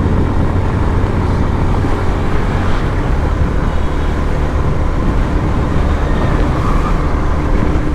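Steady engine and road noise of a motorcycle riding at speed, with wind rushing over the microphone.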